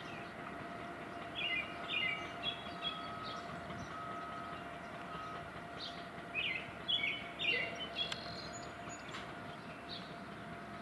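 A small bird chirping in two bursts of quick repeated notes, over a steady background hum with a faint constant tone.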